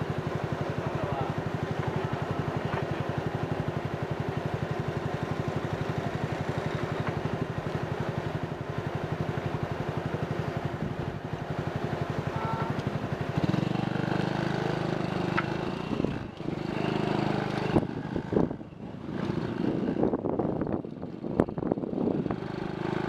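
Motorcycle engine running at a steady idle, then about thirteen seconds in it gets louder as the bike pulls away and rides on, with wind buffeting the microphone near the end.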